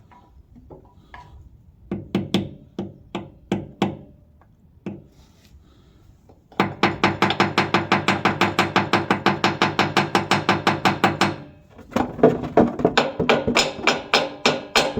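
Metal tapping on the fuel tank of a 1913 Richard Hornsby portable engine, a small screwdriver being tapped in to free the tank's bottom plate. A few separate ringing taps come first, then a fast, even run of taps, about eight a second, which pauses briefly near the end and starts again, the tank ringing under each blow.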